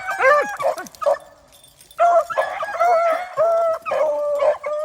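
Rabbit-hunting dog giving tongue in a run of short, yelping cries, with a pause of about a second near the start, then calling almost without a break. Her voice is the sign that she is on a rabbit's scent and a rabbit is near.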